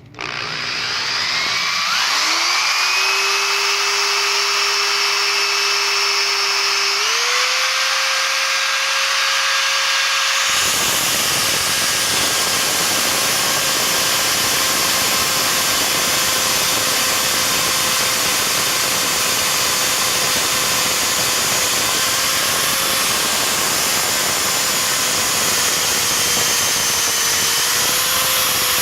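Power drill running with a steady motor whine that climbs in pitch over the first several seconds. From about ten seconds in, a harsher, fuller grinding noise joins it as the carbide tile-and-glass bit cuts into 1/8-inch steel.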